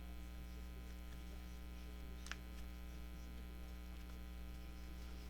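Steady low electrical mains hum, with one faint click about two seconds in.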